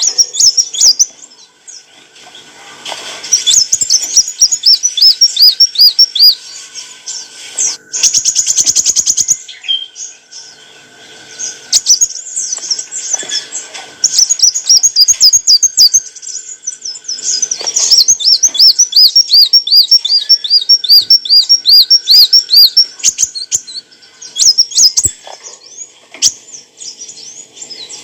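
Kolibri wulung sunbird singing: loud, high, rapid trills of quickly repeated notes, coming in bursts of a few seconds with short pauses between. About 8 seconds in there is a brief fast run of clicks.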